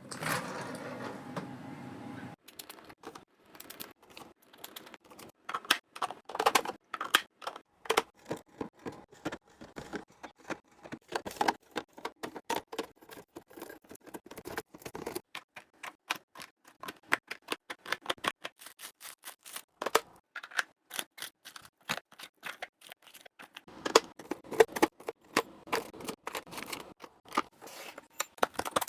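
Food containers and jars being handled, set down and snapped shut while a fridge is organised: a long run of irregular clicks, taps and light clinks. A steady hum sounds for about the first two seconds.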